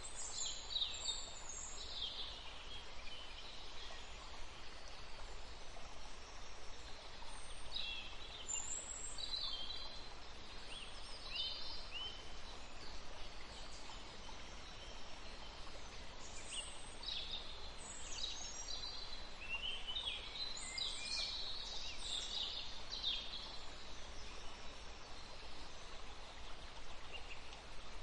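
Birds calling: scattered clusters of short high chirps and quick trills over a steady background hiss.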